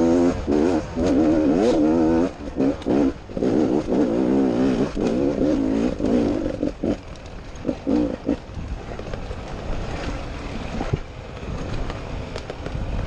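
Enduro dirt bike engine revving hard in repeated bursts, its pitch rising and falling as the throttle is worked. After about nine seconds the engine drops back, leaving quieter rattles and knocks.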